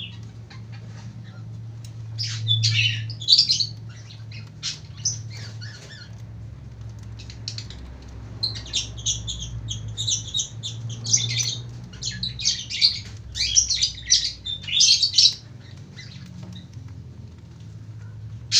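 Lovebird giving its shrill, rapid chattering song, the long 'ngekek'. A few scattered bursts come first, then a dense unbroken run from about eight to fifteen seconds in.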